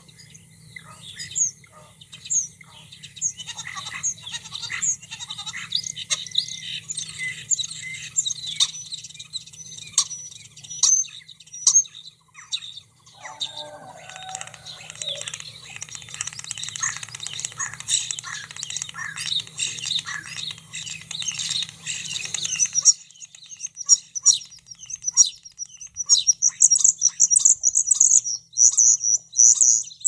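Garden birds chirping busily over a steady low hum, with one lower-pitched call near the middle. About 23 seconds in, the sound changes to a common starling singing: loud, high chirps and whistles in quick bursts.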